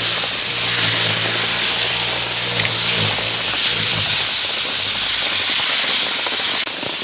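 Heavy rain falling in a steady, loud hiss that swells and eases every second or so.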